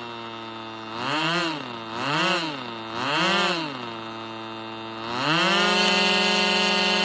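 Two-stroke OS glow engine of an RC Cessna Skymaster model idling, then blipped three times in quick succession, each rev rising and falling, and about five seconds in opened up to a steady high-rpm run.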